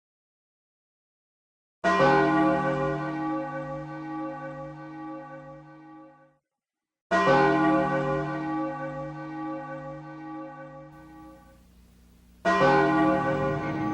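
A bell tolling three times, about five seconds apart; each stroke rings out and slowly fades.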